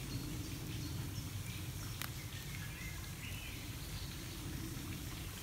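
Quiet woodland ambience: a steady low background hum, a single sharp click about two seconds in, and a faint short bird call about three seconds in.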